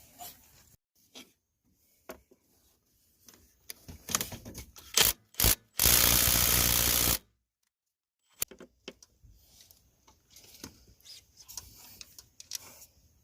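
Mechanical handling sounds: scattered small clicks and rattles, two sharp clicks about five seconds in, then a loud steady hiss-like noise for about a second and a half that starts and cuts off abruptly.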